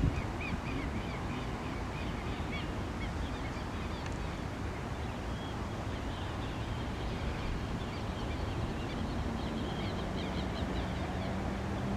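Outdoor ambience: a steady low rumble of wind on the microphone, with small birds chirping in quick repeated series near the start and again toward the end. A faint steady hum comes in about nine seconds in.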